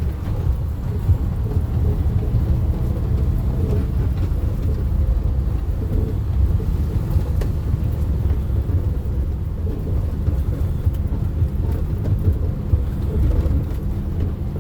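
Steady low rumble of a motor vehicle running, engine hum and road noise, continuing without a break.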